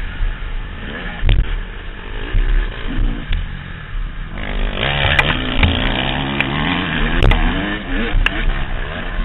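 Motocross bike engine heard from the rider's helmet, revving up and down through the gears. It gets louder and harsher about four seconds in as the throttle opens, with a couple of sharp knocks from the bike over the track.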